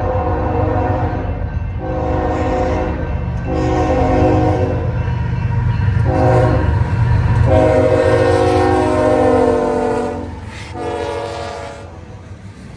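Union Pacific diesel locomotive's air horn sounding a series of about six blasts, one of them short, over the rumble of the passing train. The horn chord bends slightly lower near the tenth second, and the rumble then fades.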